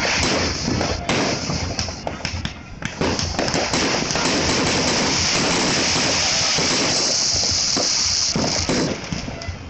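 Aerial fireworks bursting: a quick series of bangs over the first three seconds, then a dense, continuous crackling hiss from about three seconds in until shortly before the end.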